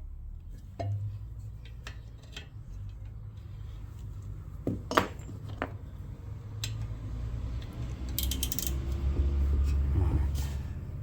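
Hand tools and metal engine parts clinking and tapping while bolts are done up, with a short metallic rattle about eight seconds in over low handling rumble.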